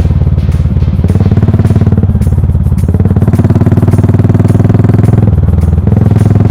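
Yamaha SR400's single-cylinder four-stroke engine running through a full megaphone exhaust while being ridden, a loud pulsing exhaust note that shifts pitch in steps several times.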